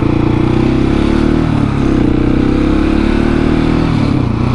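Husqvarna 701 single-cylinder motorcycle engine running steadily under throttle on the road. Its pitch dips briefly about a second and a half in and shifts again near the end.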